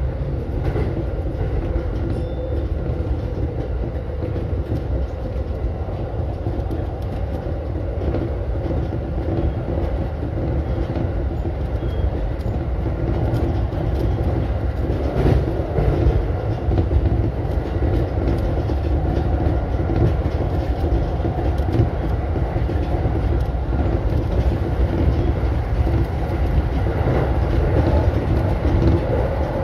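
E233-series electric commuter train running at speed, heard from inside the driver's cab: a steady low rumble of wheels on rail with a faint steady hum, a few sharp clicks, and getting slightly louder in the second half.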